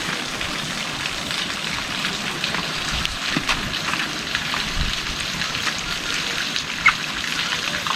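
Heavy rain falling steadily: an even hiss with many sharp drop taps striking close by, one louder tap about seven seconds in.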